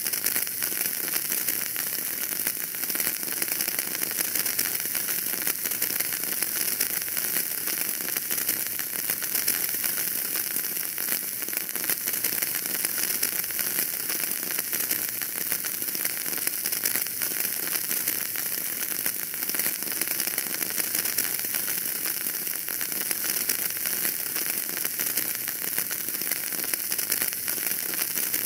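Wood fire burning in a fireplace, crackling steadily with a dense stream of small pops over a soft hiss.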